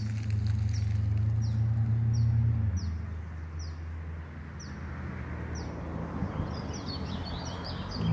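A small bird repeats a short, falling chirp about once a second, breaking into a quick run of chirps near the end. Under it a steady low engine drone from a vehicle fades out a little under three seconds in.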